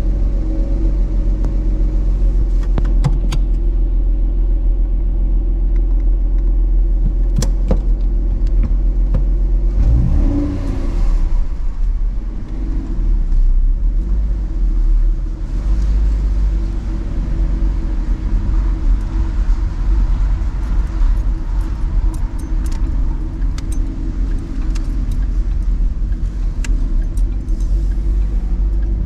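Ford Mustang's 3.7-litre Cyclone V6 running on injector data from a GT500 tune: idling steadily for about ten seconds after starting, then the engine note changes and it runs under varying load as the car is driven, with a few light clicks and rattles.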